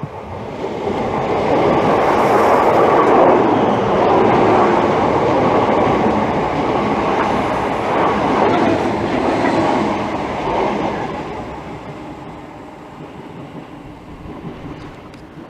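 Greater Anglia Class 321 electric multiple unit passing through the station, its wheels running on the rails with some clickety-clack. The noise builds over the first two seconds, stays loud for about nine seconds, then fades away.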